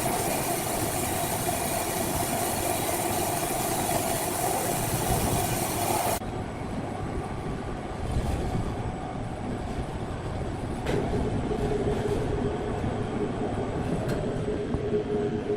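Sawmill machinery running, with a steady whine over a loud rumble. About six seconds in the sound drops abruptly to a quieter run, and a lower tone comes in later.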